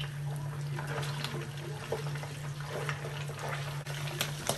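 Pieces of goat meat frying in a shallow pan of hot oil: a steady sizzle full of small crackles and pops, with a steady low hum underneath.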